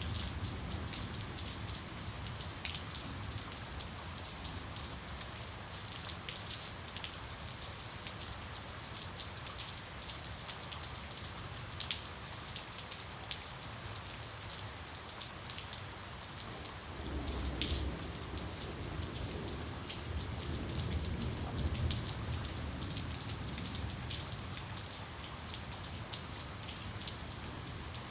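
Steady rain falling, with scattered louder drops ticking against a surface. A little past the middle, a low rumble of distant thunder rolls in and lasts several seconds.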